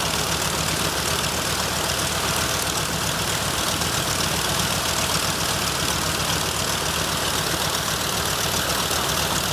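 The original Nakajima Sakae 21 fourteen-cylinder, two-row radial engine of a Mitsubishi A6M5 Zero fighter, running steadily with no change in speed.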